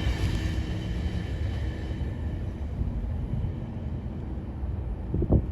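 GO Transit commuter train rumbling past on the rails as its last car goes by, its higher sounds fading after about two seconds. A gust of wind hits the microphone near the end.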